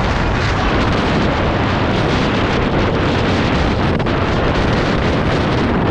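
Wind buffeting the microphone of a dirt bike riding at speed, a loud steady rush with the bike's engine running underneath.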